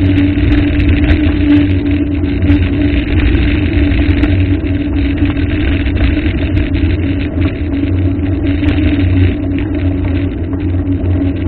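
Loud steady rumble with a constant low hum and no breaks.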